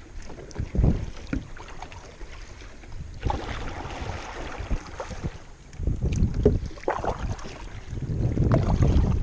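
Kayak paddle strokes through water, with splashing and dripping and a longer wash of water from about three to six seconds in, while wind buffets the microphone in gusts.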